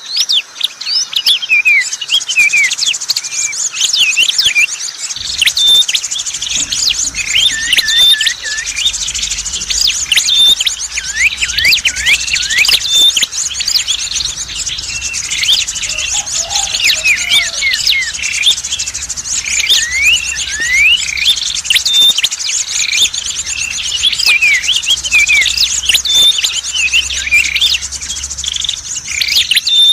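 Dense, overlapping chirping and twittering of small songbirds, many quick rising and falling notes over a steady high-pitched trill, as in a bird-lure call recording for small birds such as prinias. A faint low hum comes in about five seconds in.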